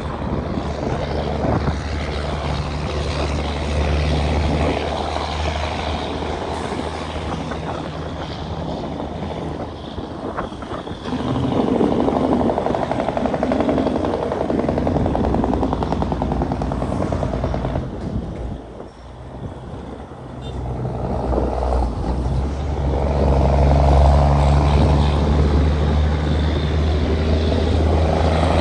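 Caterpillar 6NZ inline-six diesel of a heavily loaded Kenworth W900L running steadily under load. Its low engine note grows louder about a third of the way in, dips sharply about two-thirds of the way through, then builds back up to its loudest.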